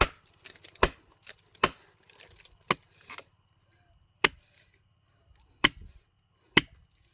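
A blade chopping into wood: about eight sharp strikes, spaced unevenly about a second apart.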